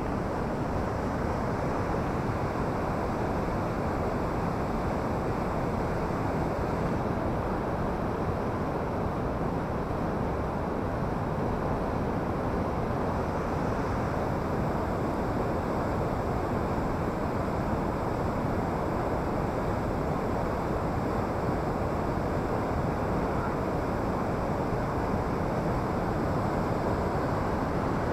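Waterfall on a mountain river, water pouring steadily over rocks: a dense, even rushing noise that holds unchanged throughout.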